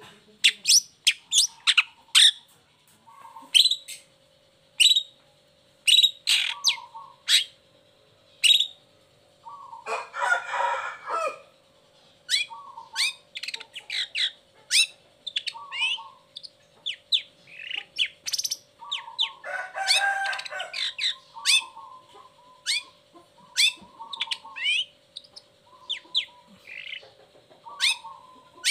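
Long-tailed shrike (cendet) singing: a fast run of short, sharp calls, broken by two longer harsh, rasping bursts about ten and twenty seconds in.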